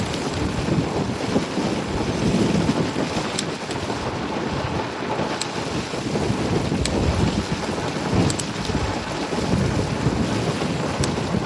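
Wind buffeting the microphone of a moving e-bike rider, a steady loud rumbling rush with a few faint ticks.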